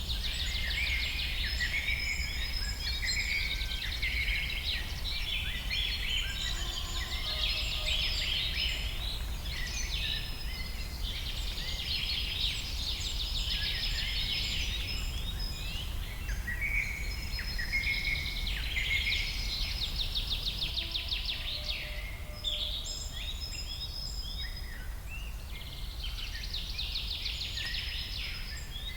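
A dense chorus of many birds calling and singing over one another, full of rapid trills and chirps, over a steady low rumble.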